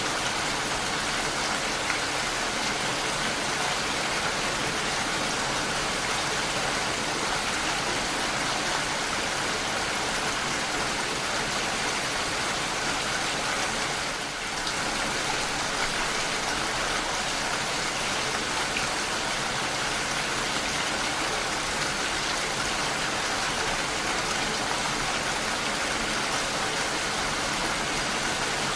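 Steady rain falling: an even hiss of many drops, with a brief dip in level about halfway through.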